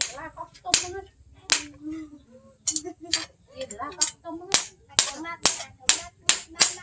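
Hammer blows on bearing steel being forged into a knife blade on an anvil: about a dozen sharp strikes, spaced unevenly at first, then quickening to two or three a second.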